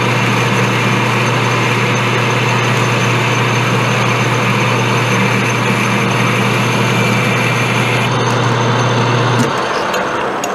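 Metal lathe running while a boring bar takes a light hand-fed finishing cut inside a steel bore: a steady motor hum with cutting hiss over it. The hiss stops about eight seconds in as the cut ends, and the spindle hum stops about a second later, followed by a few clicks.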